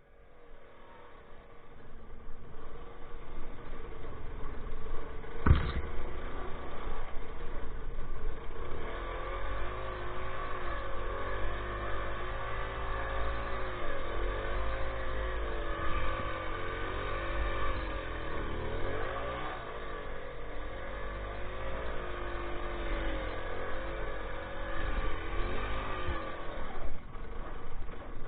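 Minsk two-stroke motorcycle engine running under way, its pitch dipping and rising again several times with the throttle. It grows louder over the first few seconds, and there is one sharp knock about five and a half seconds in.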